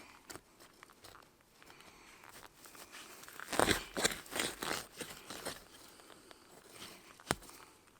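Crunching and rustling from hands and a tool working garden soil while planting flower bulbs: a run of close strokes about three and a half seconds in, then a single sharp click near the end.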